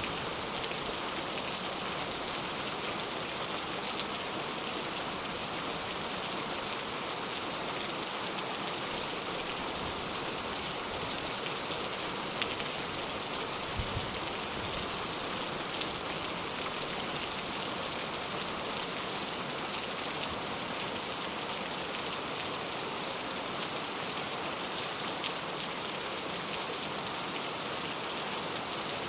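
Steady rain falling, an even hiss scattered with the small ticks of individual drops.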